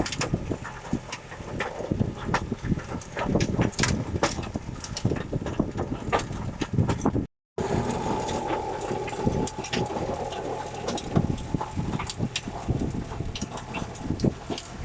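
Mini tractor's 22 hp diesel engine running, with many sharp knocks and rattles over it. The sound cuts out for a moment about halfway, and after that a steady higher whine rides over the engine.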